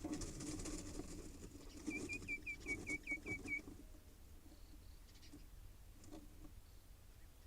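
Mynas rustling and scratching about in nesting material inside a wooden nest box, busiest in the first three and a half seconds, then sparse rustles. About two seconds in, a bird gives a quick run of about nine short, high chirps.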